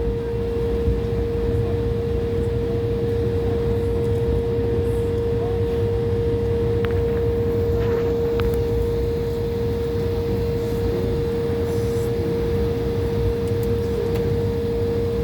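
Steady airliner cabin noise as the jet taxis to the gate after landing: a low rumble with a constant hum tone held throughout.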